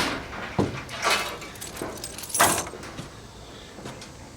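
Short clanks and scrapes of mower parts and tools being handled, with one brief falling squeak about half a second in.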